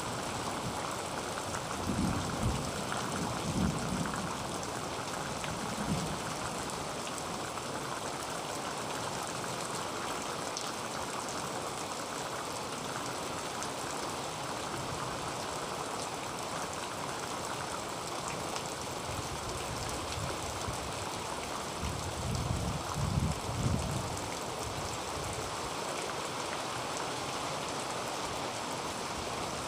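Heavy rain on a tin roof, a steady hiss of drops on metal. Low rumbling swells rise through it twice, a few seconds in and again about three-quarters of the way through.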